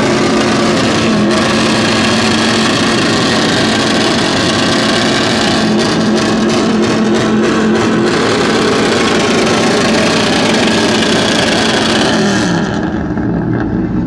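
Truck engine held at high revs in a loud, steady roar. Near the end the revs fall away.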